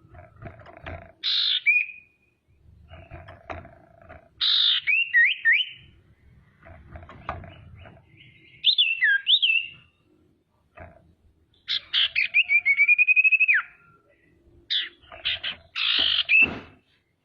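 Female common iora (sirtu/cipoh) calling: short harsh rasping notes mixed with slurred whistled notes that glide up and down. About twelve seconds in comes a rapid run of repeated notes lasting about two seconds.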